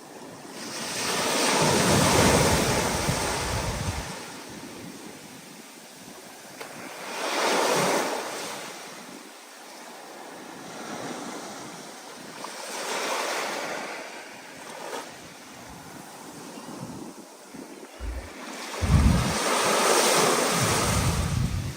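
Stormy ocean surf: four waves break and wash in one after another, each rising and falling over a few seconds. Wind buffets the microphone with low rumbles near the end.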